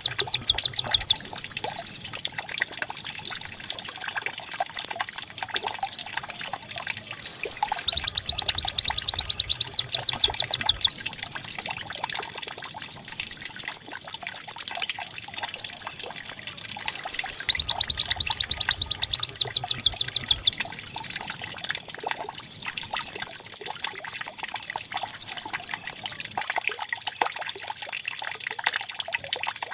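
White-eye (pleci) singing a fast, canary-like song of rapid high trills and rising-and-falling whistles. It comes in three long phrases with short breaks between them and stops about 26 seconds in, over a faint steady trickle of running water.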